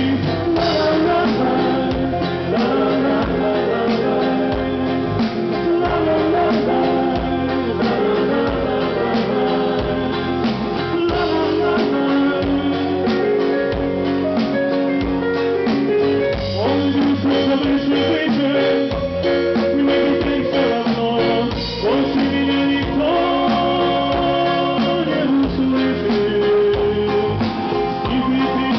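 A band playing a song, with a singer over guitar and drums.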